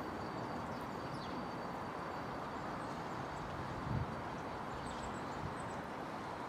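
Steady rumble of a freight train of covered wagons rolling away along the line, with one low thump about four seconds in.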